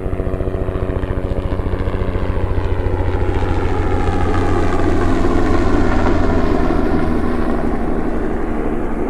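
Crop-spraying helicopter flying low past, its rotor beating rapidly and steadily. It grows louder to a peak about halfway through, then fades as it moves off.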